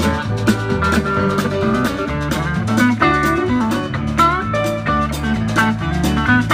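Country-rock band playing an instrumental break: a pedal steel guitar takes the lead with sliding notes over bass, rhythm guitar and a steady drum beat.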